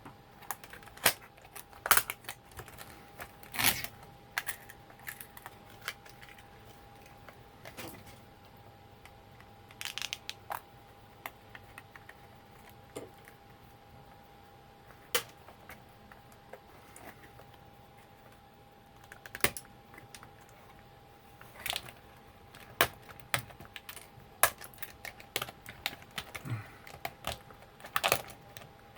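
Irregular clicks and taps of small plastic parts and tools being handled while an old label-making machine is taken apart, with a faint steady hum underneath.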